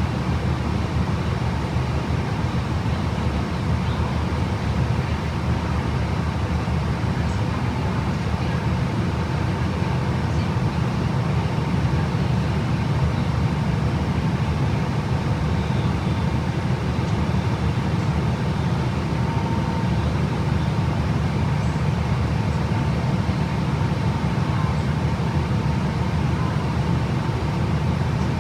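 Steady engine and road noise inside a moving 2011 Gillig BRT 29-foot transit bus with a Voith automatic transmission, with a faint thin whine running underneath.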